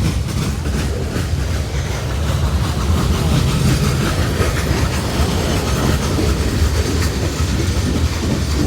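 Freight cars of a long CSX manifest train rolling past: a steady rumble of steel wheels on rail, with the clickety-clack of wheels over rail joints.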